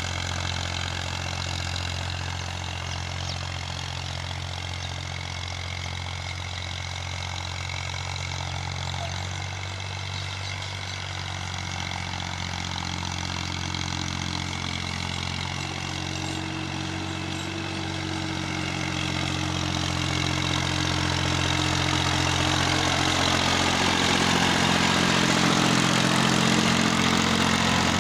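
Massey Ferguson 240 tractor's three-cylinder diesel engine running steadily under load while pulling a harrow. It grows louder over the last third, as if coming closer.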